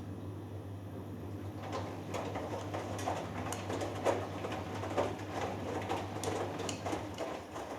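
Hoover Dynamic Next front-loading washing machine in the wash phase of a cotton cycle: the drum turns the wet 3 kg load, which tumbles and sloshes in irregular soft thuds from about two seconds in, over a steady low hum.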